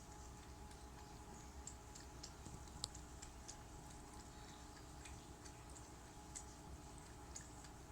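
A cat lapping water from a flowing pet water fountain: faint, irregular little ticks a few times a second, over the fountain pump's low, steady hum.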